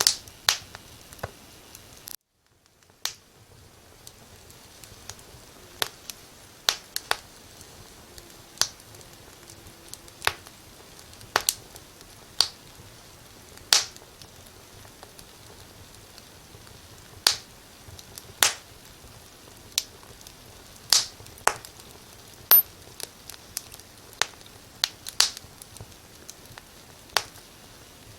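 Wood fire in a fireplace crackling: sharp, irregular pops and snaps over a low, steady hiss. The sound drops out briefly about two seconds in.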